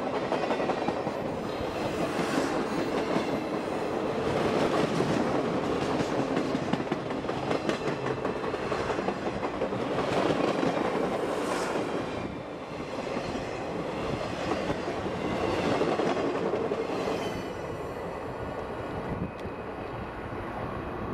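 Train rolling along the track, its wheels clicking steadily over the rail joints, easing a little quieter about halfway through.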